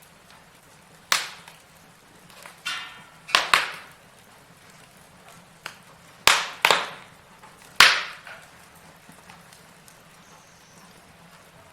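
Logs burning in a fireplace, crackling: sharp, irregular pops and snaps over a low steady hiss, the loudest snaps coming between about six and eight seconds in.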